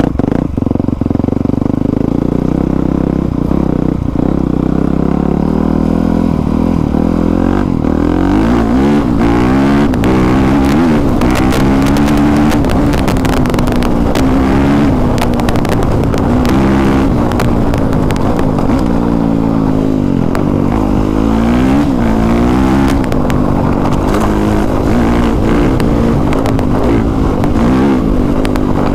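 Honda CRF450R dirt bike's single-cylinder four-stroke engine running while being ridden, fairly steady at first, then rising and falling in pitch again and again as the throttle is opened and closed.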